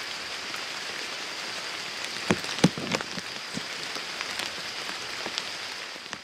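Steady rain falling on a pond and wet grass, with a few sharper, louder drop impacts between two and three seconds in. The sound fades out at the very end.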